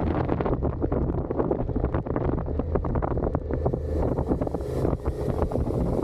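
Suzuki SV650's V-twin engine running at a steady pace through its stock exhaust while riding, with heavy wind buffeting on the microphone.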